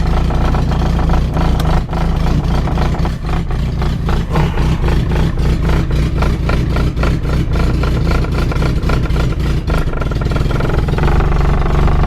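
Opel Corsa A's 1.2-litre carburetted four-cylinder engine idling on choke just after a cold start, running unevenly. Its exhaust is in need of repair or replacement.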